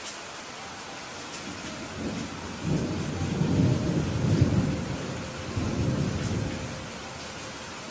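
Steady rain falling, with a roll of thunder that builds about two seconds in, rumbles deep and loud for several seconds, and dies away near the end.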